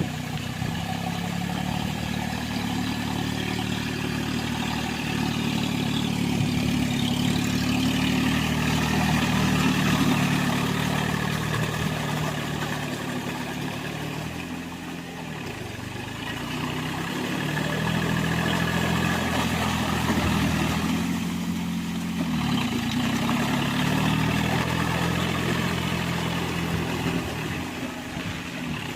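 John Deere mini tractor's diesel engine running under load while driving a rotavator, its note and level sagging and picking back up twice, around the middle and again about three-quarters through.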